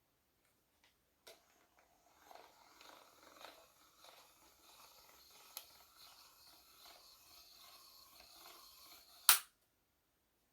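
The ACUslide crank cocking mechanism on a TenPoint Turbo S1 crossbow making an irregular ratcheting, grinding run of small clicks for about seven seconds. It ends in one loud sharp snap.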